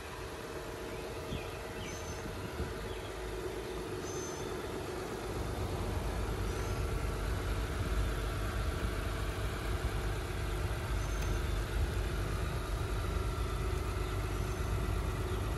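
Steady hum of an idling car engine, with a low rumble that grows louder about five seconds in and then holds. Faint, short, high chirps come now and then.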